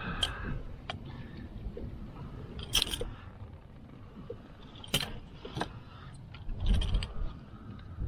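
Scattered sharp clicks and rattles, with louder ones about three, five and seven seconds in, as a hook is worked out of a caught trout's mouth, over a low rumble.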